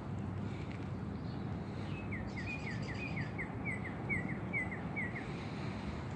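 A bird singing a quick run of about a dozen short, repeated down-slurred notes, starting about two seconds in and lasting about three seconds, over a steady low outdoor background noise.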